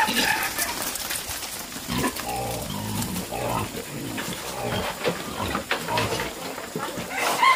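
Pigs calling: a run of short, irregular calls, with louder cries at the start and near the end.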